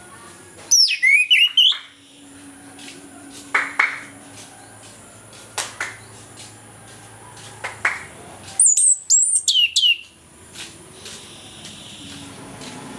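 Chestnut-capped thrush (anis kembang) singing. Two bursts of rapid high whistled notes sweep down in pitch, one about a second in and one about nine seconds in, with short single notes between.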